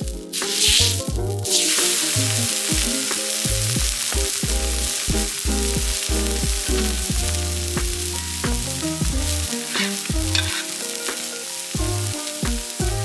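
Food frying and sizzling in a hot pan. There are louder bursts of sizzle in the first second or so, then a steady sizzle, all over background music with a bass line.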